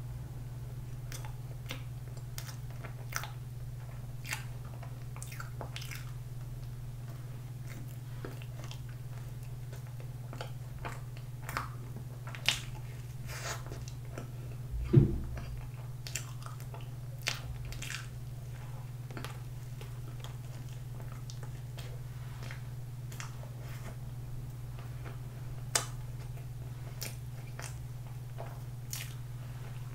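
Close-miked mouth sounds of eating soft, cream-filled pandoro bread: sticky chewing with scattered small smacks and clicks. A steady low electrical hum runs underneath, and there is one louder thump about halfway through.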